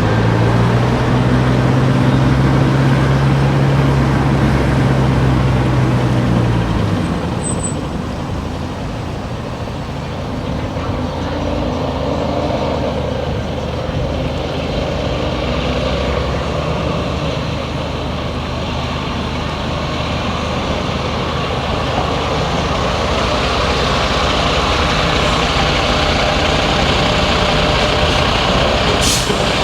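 Car driving through town streets: steady engine and road noise. A strong low drone lasts for about the first seven seconds and then fades.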